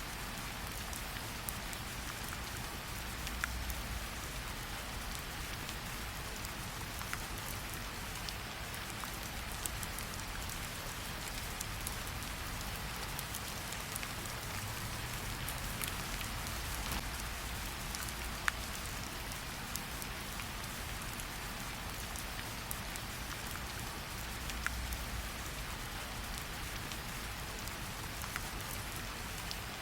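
Steady rain falling, with the occasional sharp crackle of a campfire.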